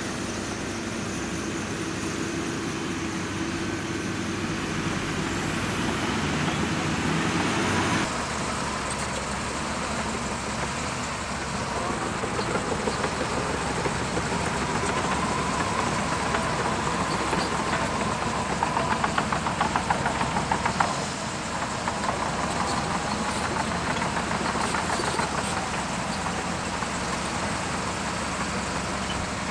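Heavy diesel earthmoving machinery running steadily. The sound changes abruptly about eight seconds in. From about twelve to twenty-one seconds a rapid rattling runs over the engine, loudest near twenty seconds.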